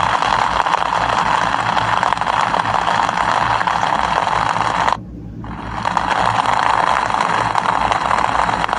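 Steady rain, an even hiss, that drops away sharply about five seconds in and fades back up within a second.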